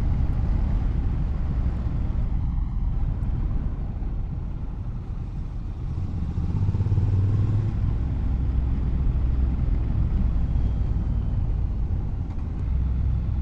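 Motorcycle running on the road while being ridden, a steady low engine and road sound that swells slightly about halfway through.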